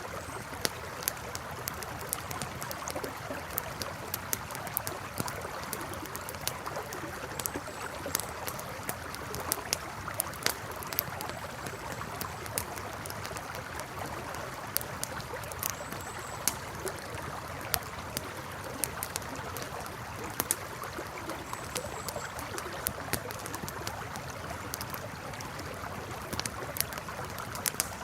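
Campfire crackling, with frequent sharp irregular pops, over the steady rush of a flowing river.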